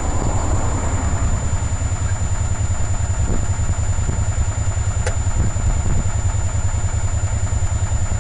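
1993 EZ-GO gas golf cart engine going with a rapid, steady low pulse during a cold start on choke after winter storage. A single click sounds about five seconds in.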